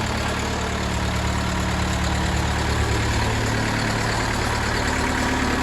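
1969 Nuffield 65 hp four-cylinder diesel tractor engine idling steadily soon after a cold start at just above freezing.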